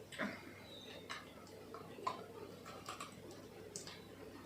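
Faint eating sounds: a scatter of short, soft clicks and smacks from chewing and chopsticks, roughly two a second.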